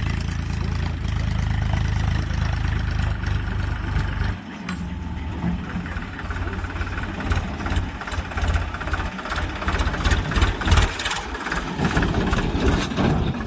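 Heavy farm machinery engine running with a steady deep drone. About four seconds in, the sound changes to a rougher engine noise with a lot of clattering and rattling over it, which cuts off abruptly at the end.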